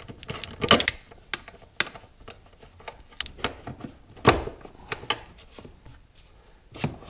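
Hand tools and metal parts clicking and knocking as a ground strap is unbolted and the secondary air injection pump is worked free, with louder knocks about a second in and about four seconds in.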